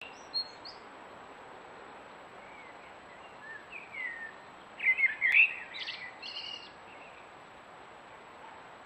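Wild birds singing and chirping in short warbled phrases over a steady background hiss, with the loudest burst of song about five seconds in.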